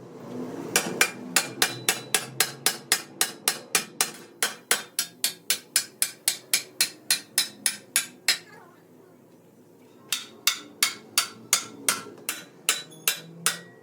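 Hammer striking metal in fast, even blows, about four a second: a long run, a pause of about two seconds, then another run.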